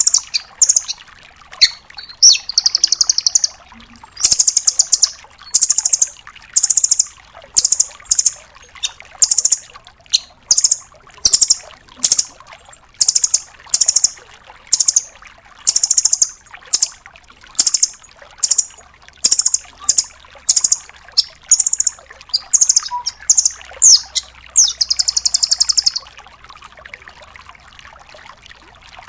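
Velvet-fronted nuthatch calling: very high, rapid trilled bursts repeated about one or two a second, some drawn out into longer rattling trills. The bursts stop a few seconds before the end.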